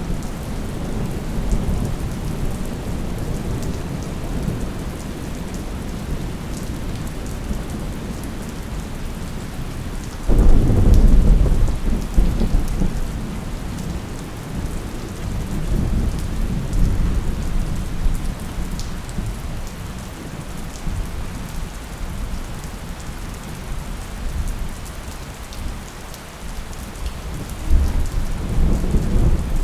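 Thunderstorm: steady rain with low rolling thunder throughout. A loud thunderclap breaks about ten seconds in and rumbles away over several seconds, and another roll of thunder swells near the end.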